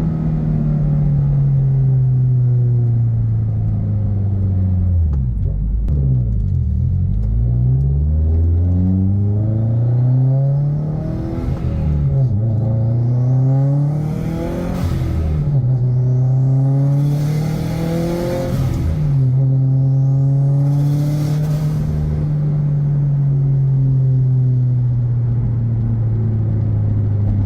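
The 2.5-litre turbocharged flat-four of a modified 2017 Subaru WRX STI accelerating hard through the gears: the engine note climbs and drops several times at the shifts, with a rising whistle and brief rushes of air near the shifts, then holds steady at cruise near the end.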